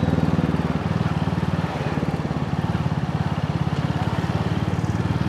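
Motorcycle engine running steadily, its exhaust beat heard as an even, rapid pulsing.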